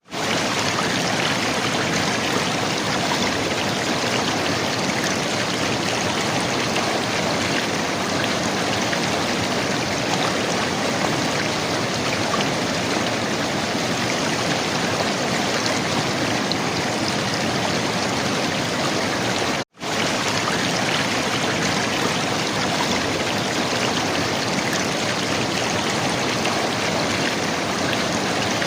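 River water flowing and gurgling in an even, steady rush. The sound cuts out for a split second once, about two-thirds of the way through.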